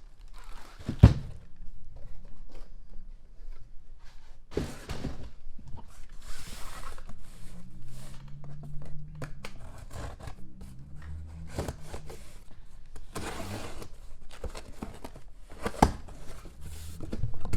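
Items and packaging being handled: a sharp thump about a second in, a few more knocks, and several short bursts of rustling.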